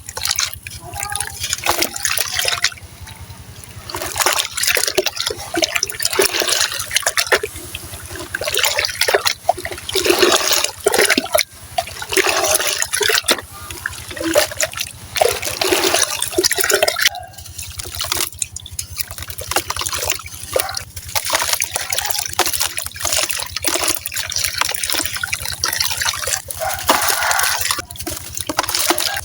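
Wet, gritty sand-cement crumbling and crunching in water, in an uneven run of close crackles, crumbles and splashy breaks.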